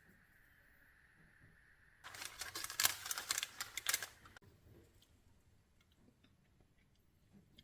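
A dense run of quick clicks and crackles lasting about two seconds, starting and stopping abruptly, then a few faint ticks.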